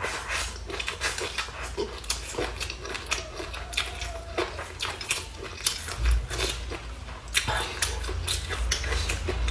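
Eating sounds: a quick irregular run of small clicks and crunches from chewing and utensils against a bowl, with a low hum coming up about six seconds in.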